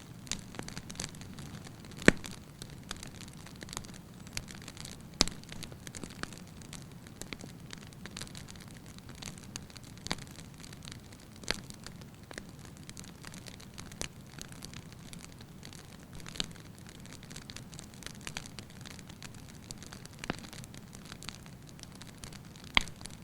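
Firewood burning in a fireplace: a steady low hiss of flames with light crackling and sharp pops every second or few. The loudest pops come about two seconds in, about five seconds in, and near the end.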